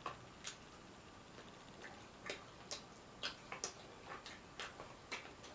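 A person chewing fried clams and fries: a dozen or so short, crisp clicks of crunching and mouth sounds at an uneven pace.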